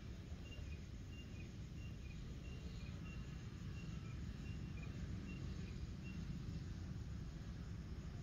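Quiet open-air evening ambience: a steady low rumble, with a bird repeating a short high two-note chirp about twice a second until near the end.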